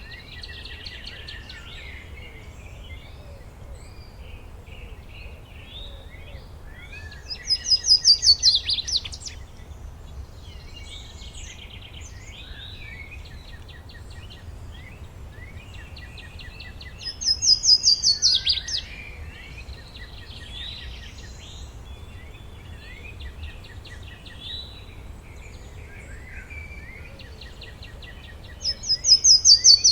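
Forest birdsong: one songbird repeats a loud, fast trill of notes falling in pitch, about a second and a half long, three times roughly every ten seconds, over the softer chirping of other birds. A low steady rumble lies underneath.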